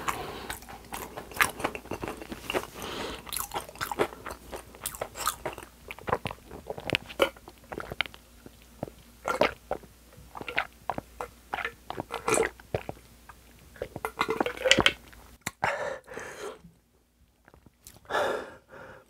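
Close-miked chewing and crunching of food, with many sharp irregular crunches. Partway through come gulps of an iced drink from a glass jar, and the sounds thin out toward the end.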